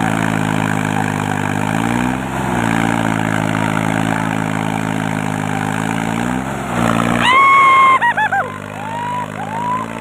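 Tractor engine idling steadily, revving up briefly twice. Near the end comes a loud, high, steady tone lasting under a second, followed by a few short chirping sounds.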